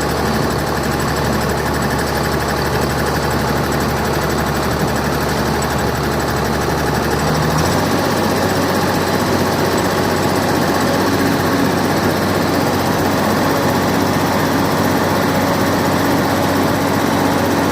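Freshly overhauled Komatsu PC200 excavator diesel engine running steadily; about eight seconds in its speed steps up and holds at the higher revs.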